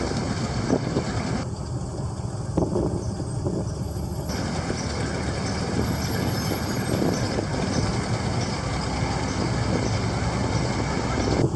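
Car engines running as cars cruise past on a street, a steady low rumble with traffic noise.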